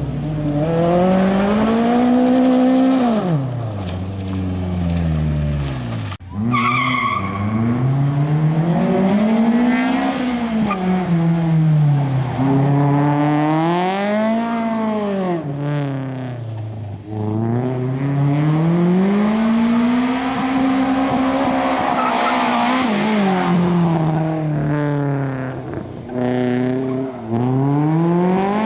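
Race car's B20 VTEC four-cylinder engine at full throttle, its pitch climbing through the revs and dropping back over and over as it is driven hard through gears and corners.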